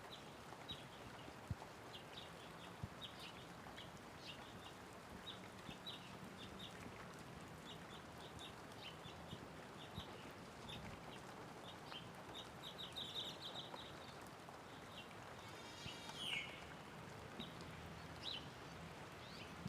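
Light rain falling steadily with birds chirping: many short, high chirps throughout, a quick run of them around 13 seconds in and a longer call falling in pitch about 16 seconds in.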